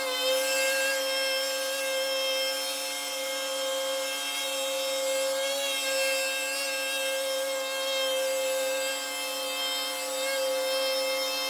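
A power tool running steadily at high speed, a constant high-pitched whine that barely changes.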